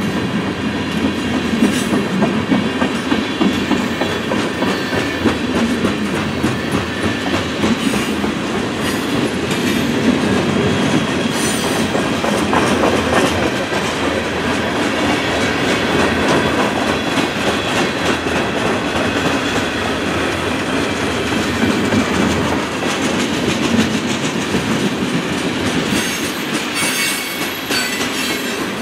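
Freight cars of a long train rolling past: tank cars and covered hoppers on steel wheels, giving a steady rumble with rapid clickety-clack as the wheels run over the rail.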